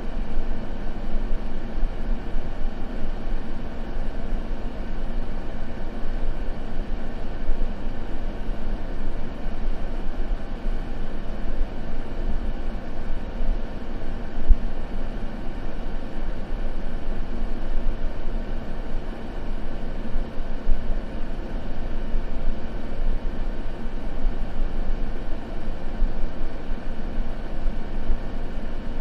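Continuous white-noise sleep ambience: an even, unbroken hiss weighted toward a deep rumble, with one slightly louder blip about halfway through.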